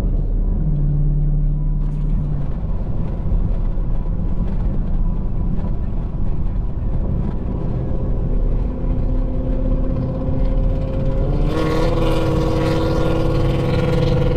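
Car engine and road rumble while driving slowly. From about 8 seconds the engine note climbs gradually, and at about 11.5 seconds a louder, higher engine note with more bite cuts in as the car speeds up.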